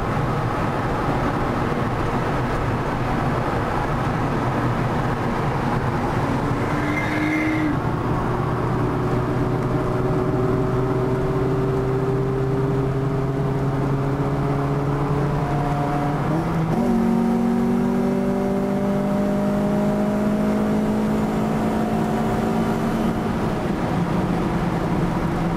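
Car engine and tyre road noise heard from inside a car moving at motorway speed. The engine's pitch climbs slowly as it accelerates, with a sudden jump in pitch about 17 seconds in.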